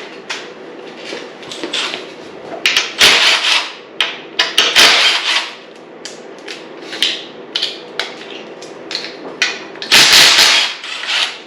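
Socket tools working out steel engine-mount hanger bolts on a dirt bike frame: irregular metal clinks, knocks and rattles, with several louder clattering bursts.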